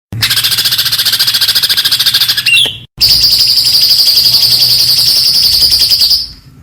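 Songbird singing fast, high-pitched repeated notes, about ten a second, in two runs split by a brief break near the middle; the second run is a steady, high trill.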